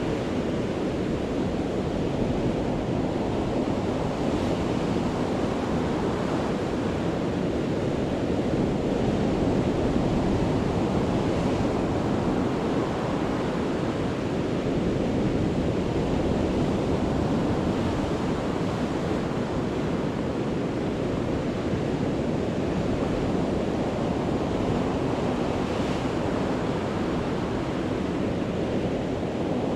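Sea waves breaking on the shore, a steady rush of surf that swells and eases gently, with no single crash standing out.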